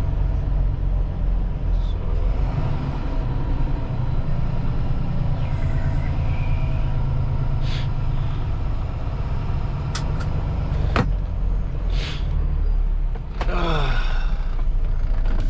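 A semi-truck's engine and road rumble heard from inside the cab. Several short air hisses from the air brake system come in the second half, along with a few sharp clicks and a brief falling whine near the end. The truck is losing a lot of air each time the brakes are applied.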